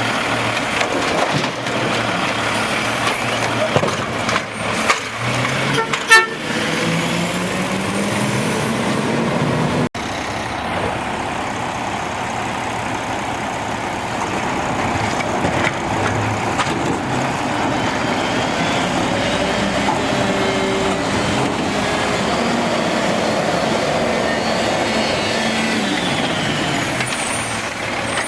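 Automated side-load garbage truck running, its engine rising in pitch, with clanks and knocks in the first few seconds. The sound changes abruptly about ten seconds in to a steadier truck engine run.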